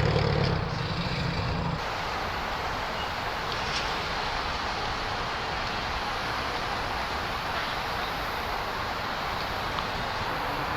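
A car engine running for a little under two seconds, then a sudden change to a steady rush of traffic noise.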